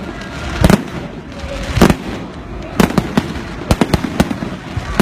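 Fireworks going off in a series of sharp bangs at irregular intervals. Two loud ones come about one and two seconds in, then quicker pops follow toward the end.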